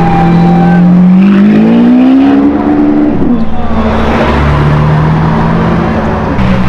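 Lamborghini Aventador V12 engine running, revved once: the pitch rises smoothly from about a second in and falls away just after three seconds, then it settles to a lower steady note.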